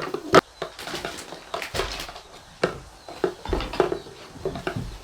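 Irregular light knocks and clatter of household objects being handled, with a sharper knock just after the start.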